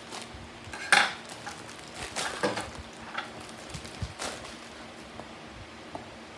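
Packaging and a model airplane being handled: a sharp knock about a second in, a cluster of rattling knocks and rustles a second later, then a few lighter clicks.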